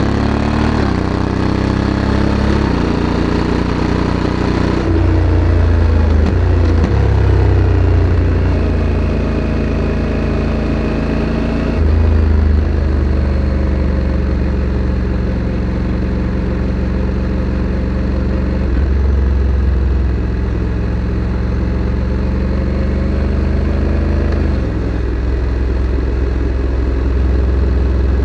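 Honda Africa Twin CRF1100 parallel-twin engine running through its stock factory exhaust while riding, its note rising at first and then changing pitch in steps several times as the speed and gearing change.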